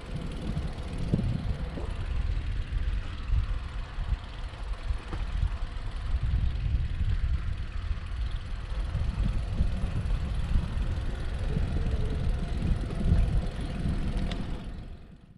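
Wind buffeting the microphone: a loud, uneven low rumble over a steady hiss, fading out near the end.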